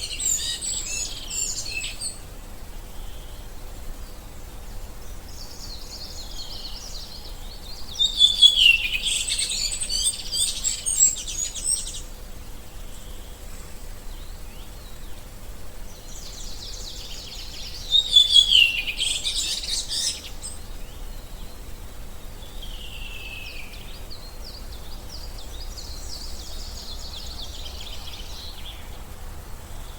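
Songbirds singing in bouts of a few seconds, high chirps and trills, separated by short quieter gaps; the loudest bouts come about a third and two-thirds of the way through.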